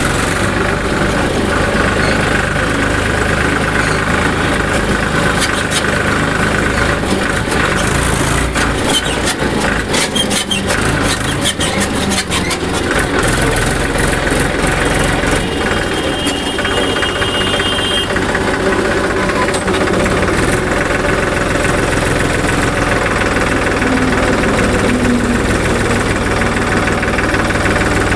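Powertrac tractor's diesel engine running steadily while hauling a fully loaded trolley on the road, with a spell of rapid clicking rattles about a third of the way in.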